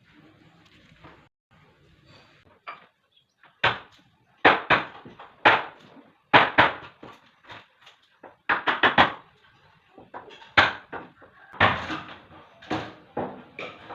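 Sharp, irregular knocks and bangs on wood while a wooden door is being fitted, starting about four seconds in, some coming in quick clusters of three or four.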